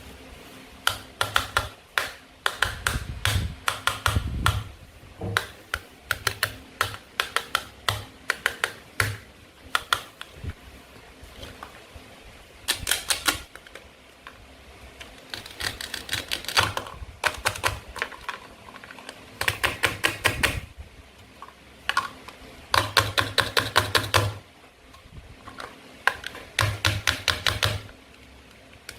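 Toy knife cutting plastic and wooden play-food fruit and vegetables apart: repeated short bursts of rapid clicking crackle, one burst per cut, with brief pauses between them.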